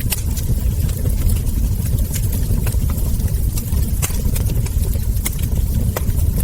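Wood fire crackling: sharp pops and snaps scattered irregularly, several a second, over a steady low rumble.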